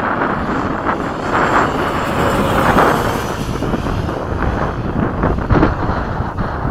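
Heavy wind buffeting the microphone, with the thin whine of an RC F-15 jet's electric ducted fan passing by, its pitch falling about two to three seconds in. A sharp thump on the microphone about five and a half seconds in.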